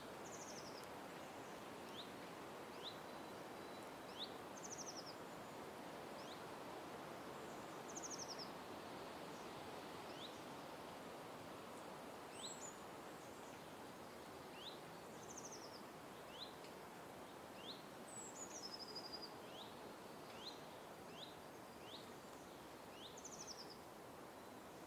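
Wild birds calling: short rising chirps repeated every second or two, and every few seconds a higher, buzzy, falling trill. Under them is a steady background noise.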